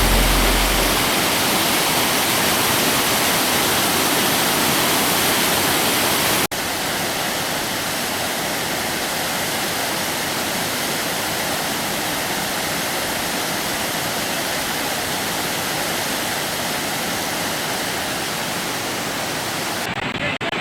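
Koilighughar waterfall's water rushing as a steady, loud hiss. An abrupt cut about six seconds in brings it back slightly quieter.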